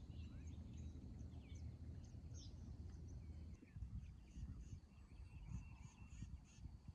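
Birds chirping and calling over a low steady rumble, with a run of quickly repeated calls in the second half.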